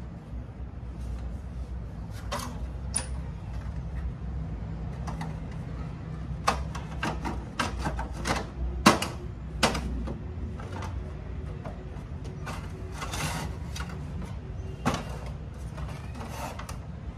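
Irregular sharp clicks and knocks of machine parts being handled, thickest in the middle, over a low steady hum.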